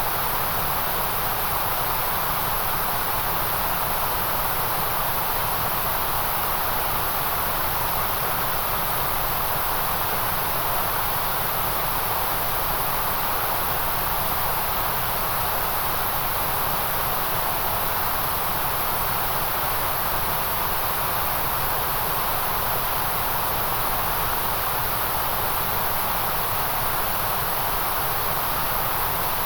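Steady, unchanging white noise hiss, strongest in a band around 1 kHz and in the highest treble.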